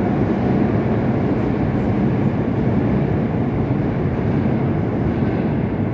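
Moscow Metro train running on the rails, a steady loud rumble of wheels and motors.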